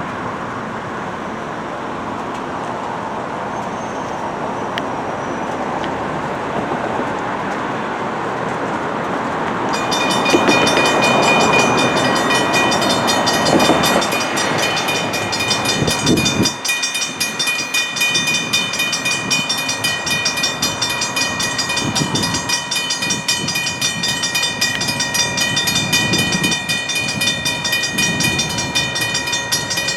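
Railroad crossing warning bell starts ringing suddenly about ten seconds in and keeps ringing steadily, over a rumble of passing traffic or engine noise that swells and then drops away. The title describes the crossing as malfunctioning.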